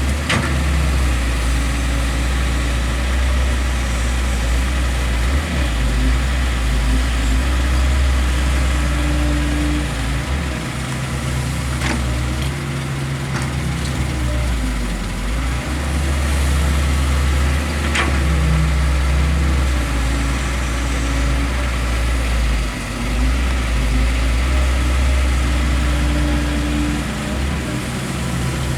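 Heavy diesel engine running with a steady deep drone that dips briefly a couple of times, with a few sharp knocks over it.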